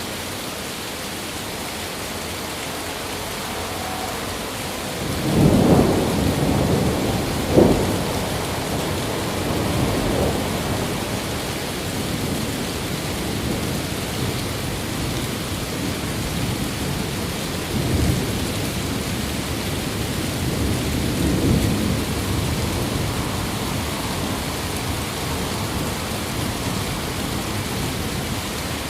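Steady rain with a thunderstorm rolling through: thunder rumbles up about five seconds in, with a sharp crack a couple of seconds later, then rolls twice more before fading back into the rain.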